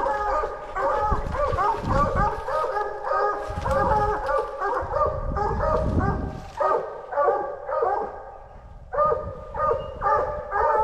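Coonhounds baying in a rapid string of short, overlapping barks. The barking dies down briefly a couple of seconds before the end, then starts again.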